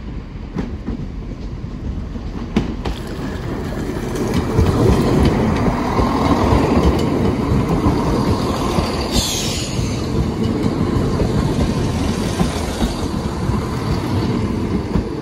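A diesel multiple-unit passenger train passes over a level crossing. Its engine and wheel noise grows louder about four seconds in, then keeps up steadily as the carriages go by, with a brief high squeal partway through.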